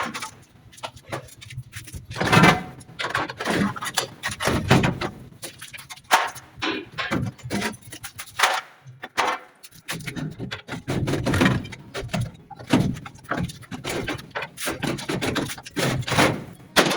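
Irregular knocks and clatter, many sharp hits at uneven spacing.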